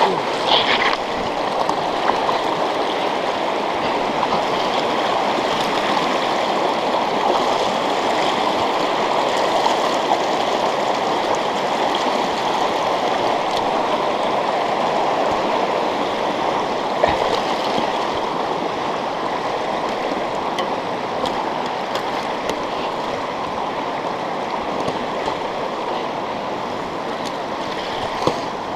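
Fast-running river water rushing steadily over rocks, with a few brief knocks, the clearest about seventeen seconds in.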